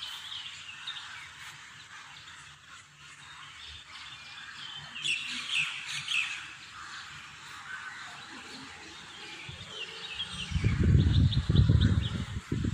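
Small birds chirping in short bursts over a steady seaside hiss. About ten seconds in, a loud, uneven low rumble sets in.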